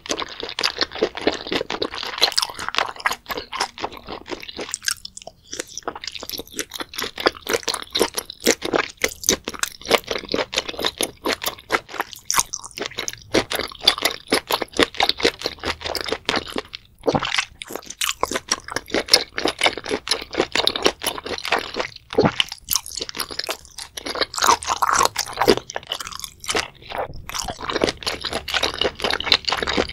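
Close-miked chewing of spicy-sauced octopus: wet, springy crunching and squishing mouth sounds in a fast, dense run of clicks, with a few brief pauses.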